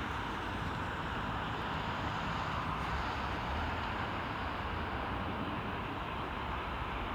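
Steady, even rumble and hiss of a distant jet airliner's engines, with no distinct events.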